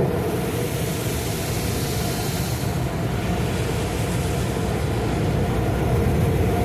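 Automatic tunnel car wash running around the car, heard from inside the cabin: a steady low rumble with a high hiss that fades about three seconds in.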